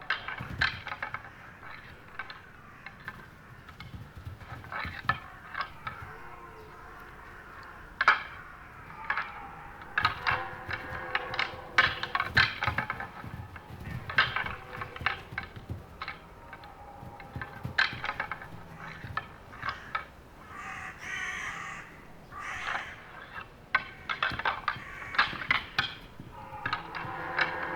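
Two rutting stags fighting, their antlers clashing and clacking together in irregular bursts of sharp knocks.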